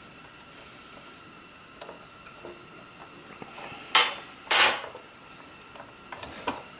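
Metal parts and hand tools clinking on the workbench: a few faint ticks, then two loud metallic clanks about half a second apart near the middle, the second ringing a little longer.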